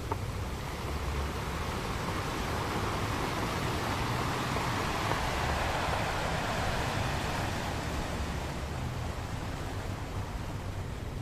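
Ocean surf washing onto a beach: a steady rush of water that swells to a peak in the middle and eases off again.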